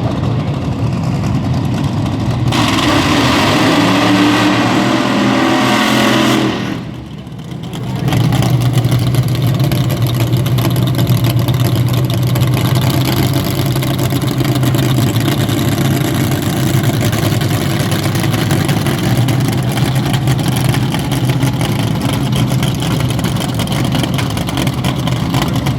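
Drag race car engine running, with rising revs from about two to six seconds in, then a steady idle.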